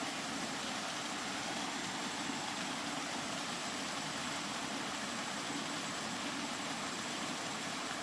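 Steady rain, an even hiss with no separate drops or thunder standing out, over a faint constant high tone.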